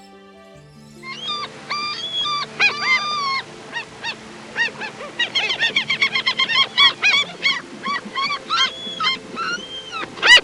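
A flock of birds calling, many short, arching, high-pitched calls overlapping, starting about a second in and coming thick and fast near the end, over soft steady background music.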